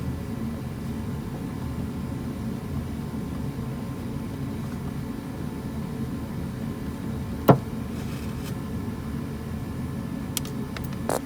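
Hand tools working a lock washer off the heater-control selector under a dashboard: one sharp click about seven and a half seconds in and a few lighter clicks near the end, over a steady low hum.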